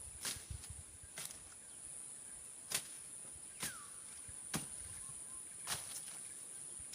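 Machete chopping through brush and small stems: sharp strikes about once a second, over a steady high-pitched insect drone.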